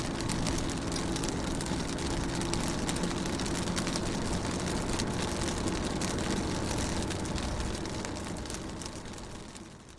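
Rain on a car, dense patter of drops over a low, steady engine hum from a vehicle running; the whole sound fades down over the last two seconds.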